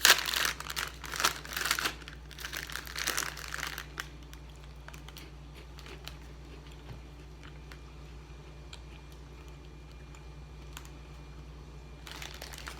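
Plastic snack bag of Kim's Smash crinkling and rustling as it is torn open and handled for the first few seconds, then only faint scattered small clicks, with crinkling again near the end.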